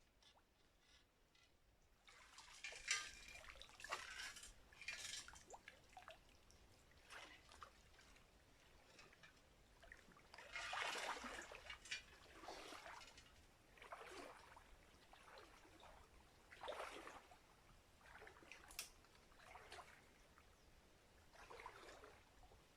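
Faint water splashing and trickling in irregular bursts, beginning about two seconds in, from water being disturbed in a shallow creek.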